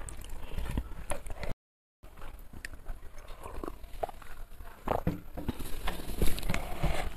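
Close-miked eating sounds: chewing with many small sharp mouth clicks, irregularly spaced. The sound cuts out completely for about half a second about a second and a half in.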